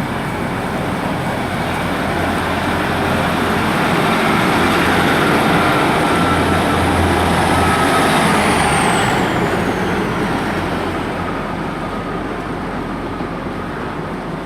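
A train passing through the station: its running noise swells to its loudest about halfway, then fades, with a high whine that drops in pitch as it goes by.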